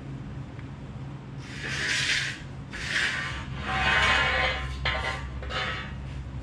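Metalworking in the shop: about five short bursts of harsh rasping noise, the longest lasting about a second, over a steady low hum.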